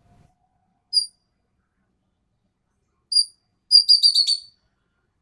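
Ekek keling bird calling in full voice: a single sharp, high whistled note about a second in, another after three seconds, then a quick run of five or six notes.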